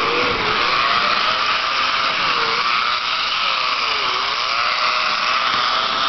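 HO scale model locomotive's small electric motor and gearbox running, a loud steady whine whose pitch dips briefly about three times as its speed falls and recovers.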